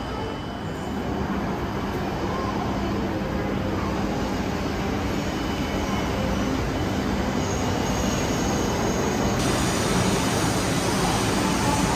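E2 series Shinkansen pulling slowly into the platform: a steady rushing hum of motors and wheels that grows slightly louder as the cars slide past.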